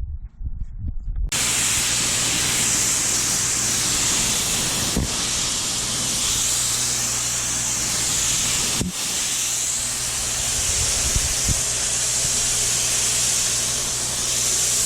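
Steady hiss of a water spray washing a wall-mounted air conditioner during cleaning, starting about a second in and broken twice by brief pauses in the spray.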